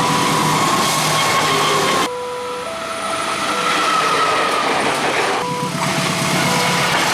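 A train passing fast over a level crossing, its wheels rumbling and clacking on the rails. Through it runs the crossing's warning alarm, a repeating pattern of short steady tones. The sound changes abruptly about two seconds in and again about five and a half seconds in.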